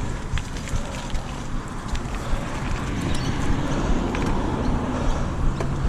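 Mountain bike being ridden on wet ground: a steady rumble of tyres and wind on the microphone, with scattered small clicks and rattles.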